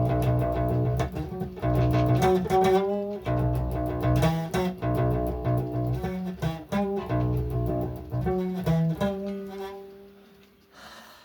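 Guitar played with fast, dense picking of chords, some notes wavering in pitch. The passage ends on one held note that fades away.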